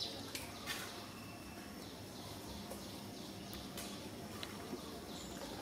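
Small birds chirping, short high calls repeating over a steady outdoor background, with a few light clicks.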